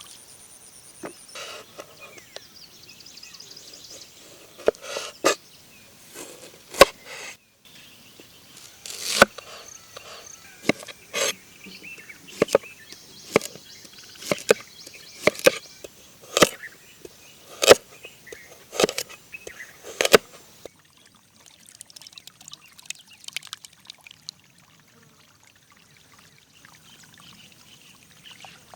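A series of sharp knocks, roughly one a second, that stop about two-thirds of the way through, over a faint steady trickle of running water.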